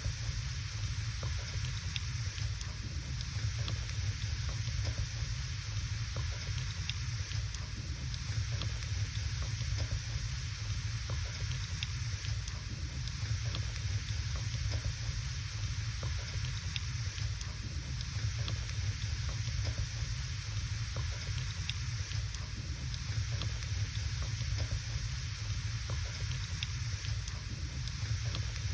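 Firewood burning in a fireplace: scattered small crackles and pops over a steady hiss, with a steady low rumble underneath.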